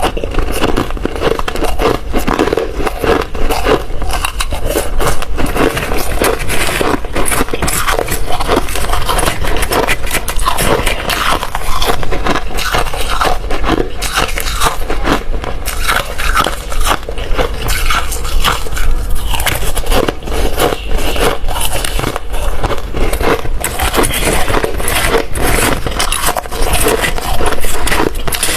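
Ice being bitten and chewed close to the microphone: dense, continuous crunching and crackling with many sharp cracks, loud throughout.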